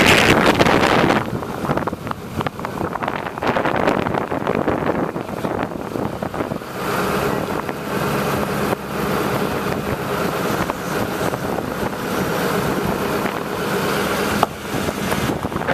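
Wind buffeting the microphone, gusting hardest at the start. From about seven seconds in, a motor engine runs steadily under it and stops shortly before the end.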